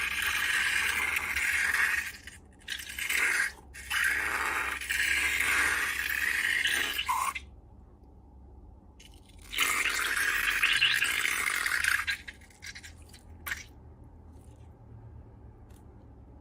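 Rough scraping and rubbing in four bursts of a few seconds each, typical of slime and balloon material being worked by hand, with a brief squeak about seven seconds in.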